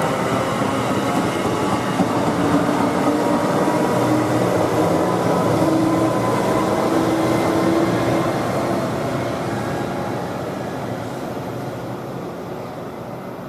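MARC commuter train of bilevel coaches passing on the rails, pushed by a Siemens SC-44 Charger diesel-electric locomotive at the rear. The sound is loudest as the locomotive goes by, then fades steadily from about eight seconds in as the train moves away.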